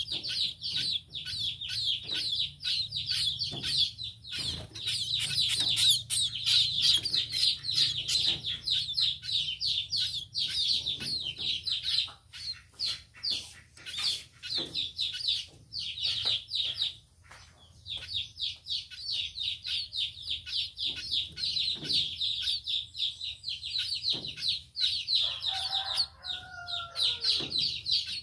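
Munias (burung pipit) chirping rapidly and continuously, many short high chirps a second, with a couple of brief pauses. Near the end comes one lower, falling call.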